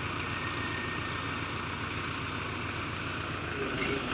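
Hydra crane's diesel engine running steadily, with an even low throb. Near the end the engine note deepens and a higher steady tone joins in.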